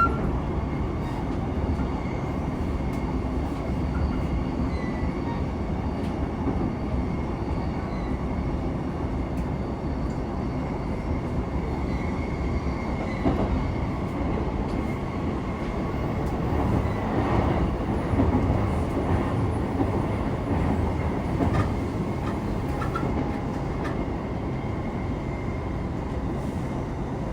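Interior running sound of a JR East E233-3000 series electric train under way: a steady rumble of wheels on rail with a faint steady whine and occasional sharp clicks. The sound grows a little louder for a few seconds past the middle.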